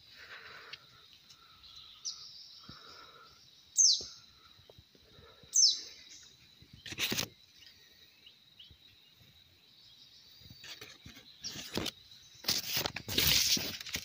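Bird calls: two loud, sharp downward-sweeping notes a couple of seconds apart, a few seconds in, with a fainter one just before, over a steady high-pitched whine. Rustling and handling noise comes near the end.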